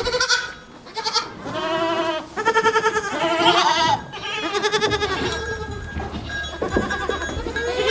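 Goats bleating, one quavering call after another, several in a row.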